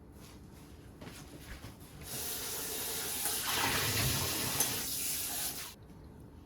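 Kitchen tap running, with water splashing into a sink for about four seconds before it is shut off suddenly. A few faint clicks of handling come before it.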